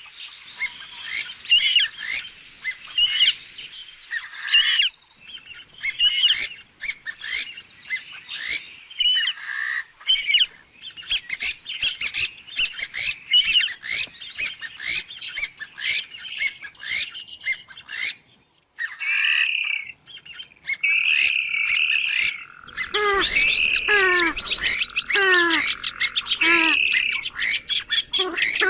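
Swamphen (trích cồ) calling over and over: a dense run of shrill, quickly falling squeals and clicking notes. About 23 seconds in, lower, deeper calls join in over a faint steady whine.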